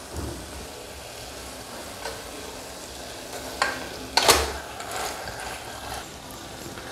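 Onion-tomato masala sizzling in a pressure cooker as raw chicken pieces are tipped in from a bowl and stirred with a wooden spatula, with a few sharp knocks and scrapes, the loudest a little over four seconds in.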